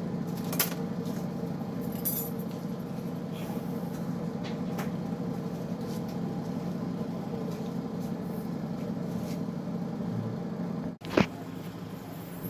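Small metal transmission parts clicking and clinking now and then as a clutch pack is taken apart by hand, over a steady background hum; a sharper click comes near the end.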